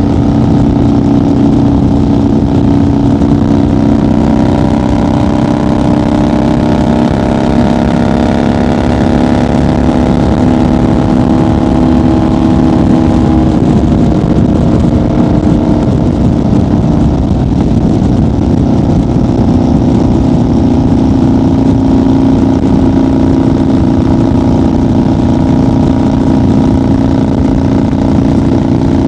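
1990 Harley-Davidson FXR's Evolution V-twin running at a steady highway cruise, loud and even. About halfway through its pitch eases down and blurs briefly, then settles steady again.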